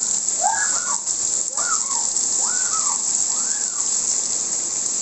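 Steady hiss of rain and running water, with short arching calls rising and falling over it about once a second.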